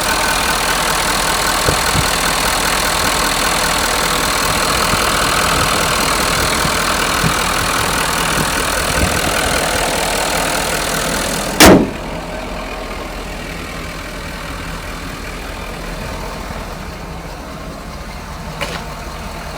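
Ford 6.7 L Power Stroke turbodiesel V8 idling steadily. About two-thirds of the way through there is a single loud thump, after which the engine sounds quieter and more muffled.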